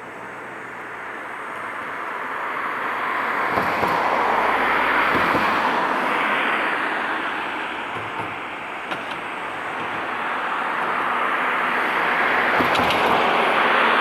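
Tobu 50090 series electric train running past, a steady rushing noise that builds up over the first few seconds, eases a little around the middle and swells again near the end, with a few faint clicks.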